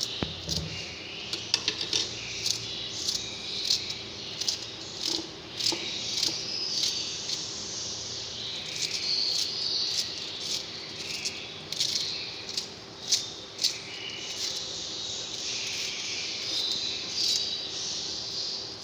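Small pet birds chirping and chattering, with many quick clicks and taps throughout.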